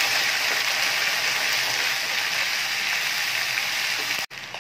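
Sliced onions and ginger-garlic paste sizzling in hot oil in a pan, stirred with a wooden spatula. A steady loud sizzle that cuts off abruptly near the end.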